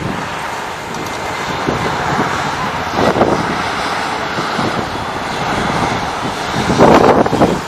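Airliner engine noise: a loud, steady rush that swells twice, about three seconds in and again near the end.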